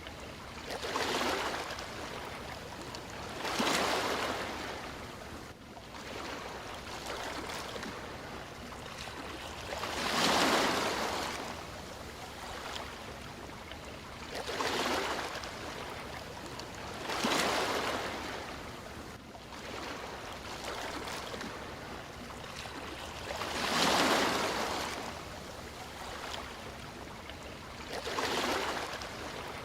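Sea waves washing in, a steady hiss that swells and fades as each wave breaks, seven times at uneven intervals of a few seconds.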